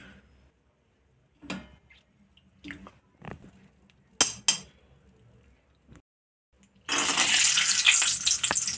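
A spoon knocks and scrapes against a metal kadhai a few times as ghee is put in. Then, about seven seconds in, a sudden loud sizzle starts as cashews go into the hot ghee and keep frying.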